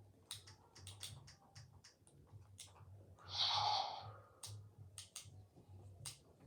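Small sharp plastic clicks from an electronic toy dragon as its controls are worked to switch modes, coming irregularly throughout. A louder rushing sound about a second long comes a little after three seconds in.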